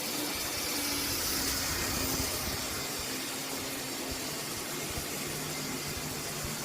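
Two Lima model Class 59 locomotives running round a layout, their motors giving a steady whirring squeal over the rails. Old-style motors like these are terribly noisy, though they run well.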